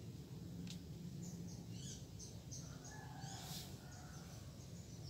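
Small birds chirping: runs of short, high chirps at about three or four a second, over a steady low rumble.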